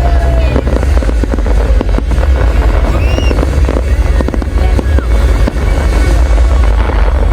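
Large fireworks display going off non-stop: a dense barrage of bangs and crackles over heavy low booms, with a few short whistles that rise and fall.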